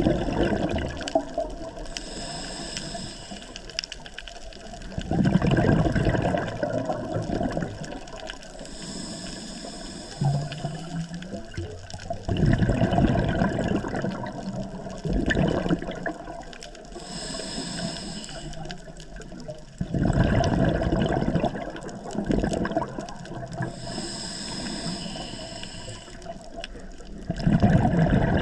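Scuba diver breathing through a regulator underwater, about four slow breaths. Each breath is a soft hiss on the inhale, followed by a loud rush and burble of exhaled bubbles.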